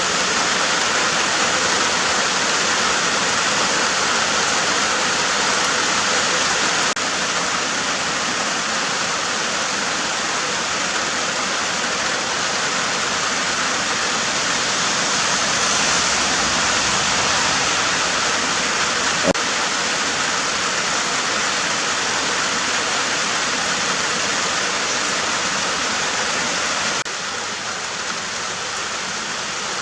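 Steady rain falling, an even hiss with no letup, and a single brief click about nineteen seconds in.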